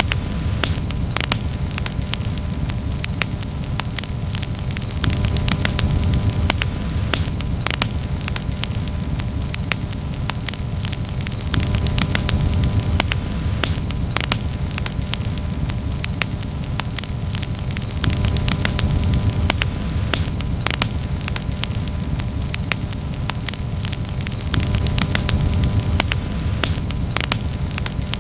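Campfire crackling, with frequent sharp pops and snaps over a low rumble that swells and eases every few seconds.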